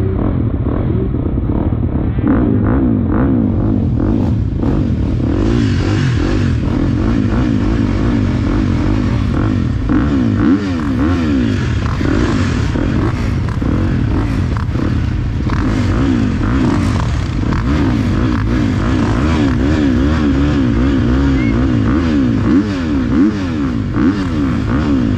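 Motocross bike engine revving up and down over and over as the bike is ridden hard, the pitch rising and falling every second or so.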